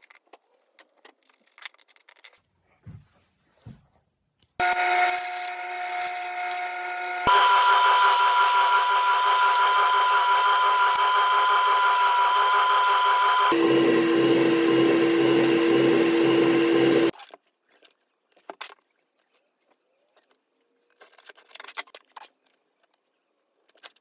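Power tool running and working wood for about twelve seconds, starting and stopping suddenly, its pitch changing abruptly twice. Faint handling clicks come before and after.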